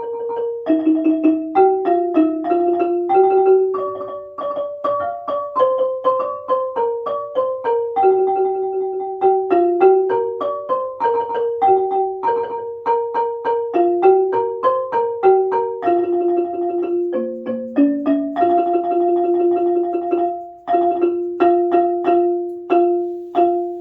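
Ranat ek, the Thai xylophone, playing a fast melody of struck notes with stretches of rapidly repeated strokes on single notes, closing on a last note that rings and fades right at the end.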